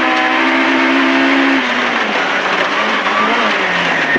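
MG ZR rally car's 1.4-litre engine heard from inside the cabin, held at steady high revs, then dropping in pitch twice, once about a second and a half in and again near the end, over steady tyre and road noise.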